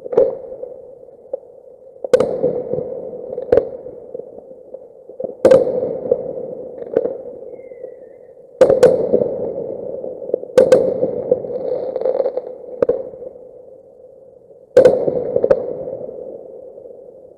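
Fireworks exploding: a sharp bang every two seconds or so, each followed by a rumbling echo that fades away, over a steady hum.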